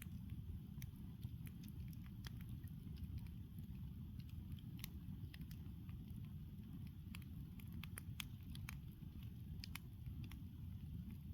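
Campfire crackling: irregular sharp pops and snaps of burning wood, a few each second, over a steady low rumble.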